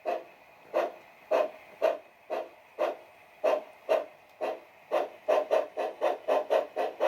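Bachmann G-scale Climax locomotive's DCC sound decoder playing steam-locomotive chuffs through its onboard speaker. The chuffs come about two a second at first and quicken to about four a second from about five seconds in, as the locomotive picks up speed.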